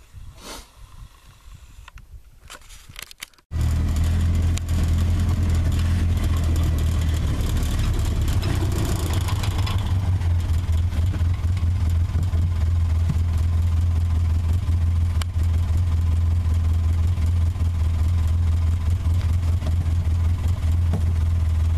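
A vehicle engine running at a steady idle with a strong low hum. It sets in suddenly about three and a half seconds in, after a few seconds of faint outdoor background.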